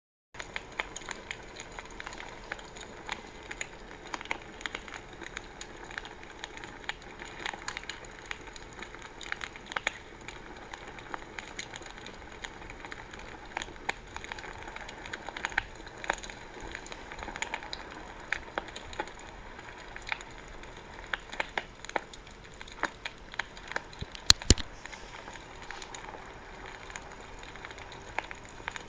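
Wood fire burning with steady crackling and frequent small pops, one louder snap about two-thirds of the way through.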